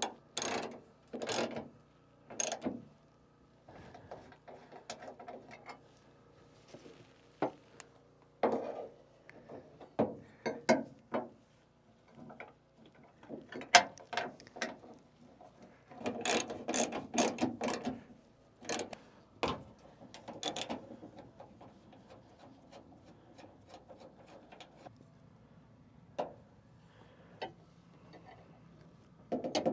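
Ratchet wrench clicking in short runs, with knocks of metal parts, as the spotlight brackets are bolted to the truck's hood hinge bolts. The clicking comes in irregular spurts and is busiest a little past halfway.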